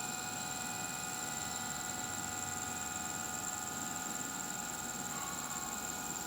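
A steady high-pitched whine with several fainter steady tones over an even hiss; no cat call is heard.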